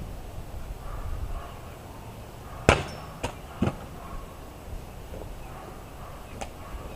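A leaf-spring steel longsword striking a target: one sharp hit with a brief metallic ring about three seconds in, followed by two smaller knocks within the next second and a faint tick near the end.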